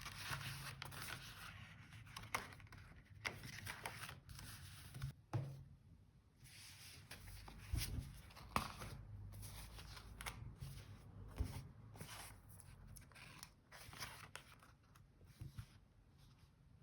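Stationery and paper being handled on a desk: rustling, then scattered light clicks and taps, with a couple of soft thumps about halfway through.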